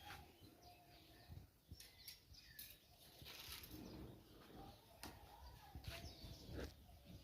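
Faint bird chirps with short gliding notes, among several knocks and a low rumble.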